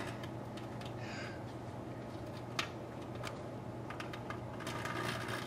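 Microwave oven running with a steady hum while the tinfoil-wrapped can inside arcs, giving scattered sharp snapping crackles, the loudest snap about two and a half seconds in.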